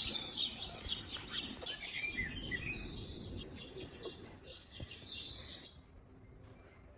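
Birdsong, many birds chirping over a faint hiss, played as one of a white-noise machine's nature sounds. It fades out and stops a little under six seconds in.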